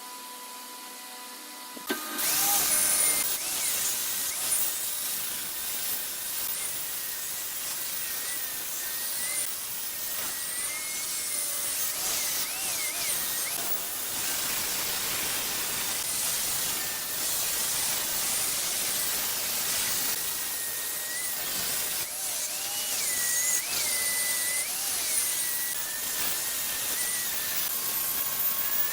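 Wood lathe running with a hum, then from about two seconds in a turning tool cutting into the spinning wood: a steady hissing scrape with a wavering high whistle through it.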